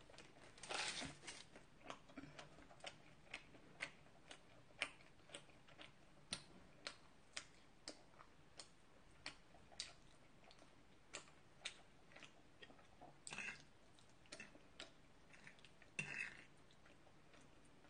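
Close-miked chewing of creamy pasta: soft wet mouth clicks about twice a second. A few short clatters of the fork in the pasta bowl are heard, one about a second in and two more near the end.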